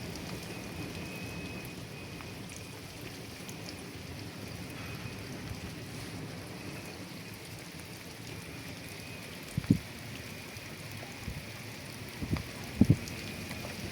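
Steady heavy rain falling, with a few short low thumps near the end.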